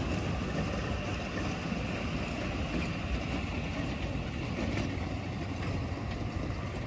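A motor vehicle's engine running steadily, a low even rumble with no change in speed.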